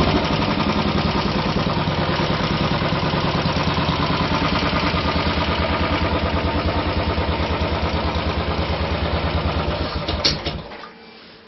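Royal Enfield 500 single-cylinder engine idling through an MG-Race exhaust with an even, steady beat, settling from a rev at the start. Near the end there is a short click, and then the engine is switched off and stops.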